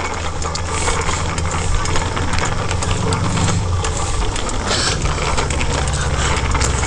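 Wind rumble on a head-worn camera's microphone and rolling noise from a bicycle being ridden, with scattered small rattles and clicks.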